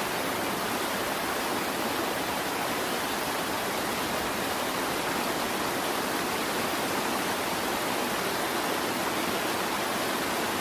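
Steady rushing of water from a large waterfall, an even, unbroken hiss.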